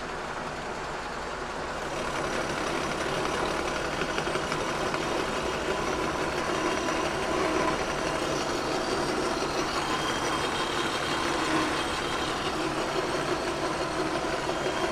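Kearney & Trecker 2HL horizontal mill running, its universal-head insert cutter taking a heavy cut along a cast iron casting. The steady machine hum grows louder about two seconds in as the cutter works into the cut.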